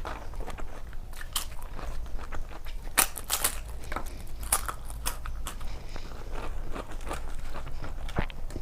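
A person chewing and crunching food close to the microphone, with irregular crisp crackles and bites, a cluster of them about three seconds in.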